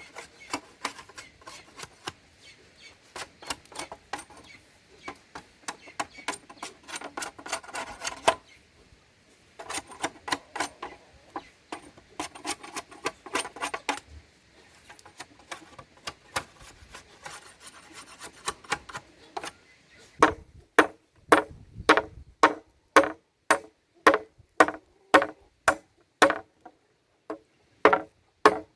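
Quick, dense scraping and rasping strokes of a hand tool, then, about twenty seconds in, steady chopping strikes about two a second, each with a short ringing knock.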